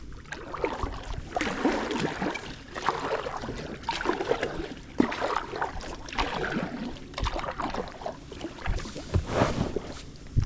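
Water splashing and sloshing around an inflatable packraft in repeated swashes about a second apart, like paddle strokes.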